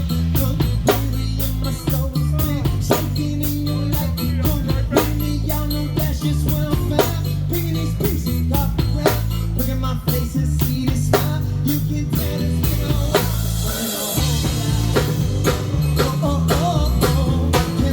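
Live band playing an instrumental passage with drum kit, bass and guitar, the drums keeping a steady beat. About fourteen seconds in the bass drops out briefly, then the band comes back in with cymbals.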